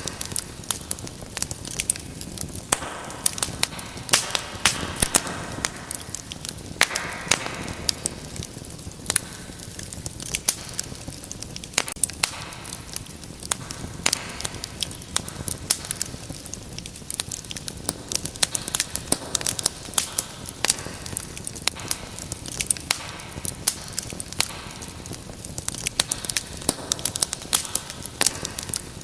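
Wood fire burning in a fireplace, crackling with frequent irregular sharp pops and snaps over a soft steady hiss of flame.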